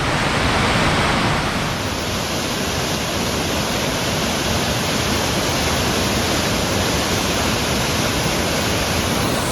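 Waterfall on a river, a steady, loud rush of falling water.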